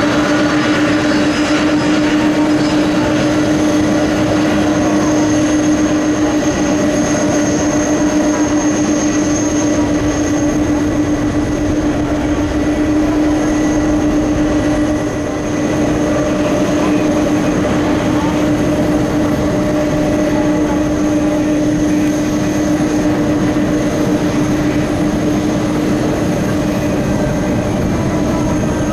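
Large jet transport's turbofan engines running at low taxi power: a steady whine of constant tones over a steady rush.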